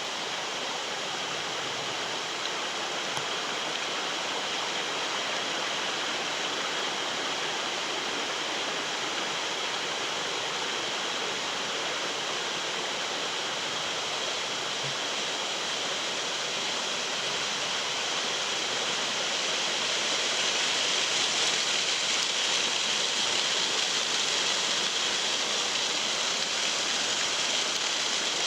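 Stream water rushing steadily, slightly louder about twenty seconds in.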